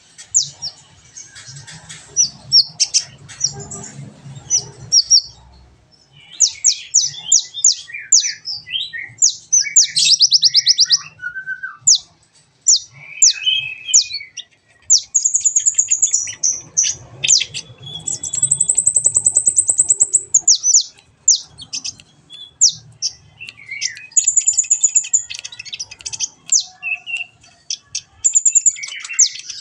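Song of the kolibri ninja, a small Indonesian sunbird, played as a training recording for cage birds. It is a rapid run of high, sharp chirps and fast trills, with one long trill held for about two seconds midway and a few lower warbled notes between.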